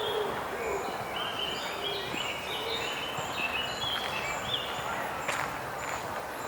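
Songbirds singing over steady background park noise: a run of short whistled notes about a second in, with thin high notes repeating about twice a second throughout and a low call at the very start. A sharp click sounds about five seconds in.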